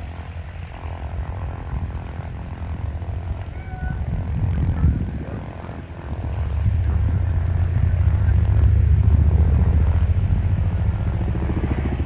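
Avro Lancaster's four Rolls-Royce Merlin V12 piston engines running as it taxis, a deep propeller drone that grows louder about six seconds in.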